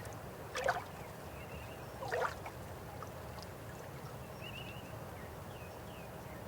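River water flowing steadily, with two louder splashing gurgles, one about half a second in and one about two seconds in.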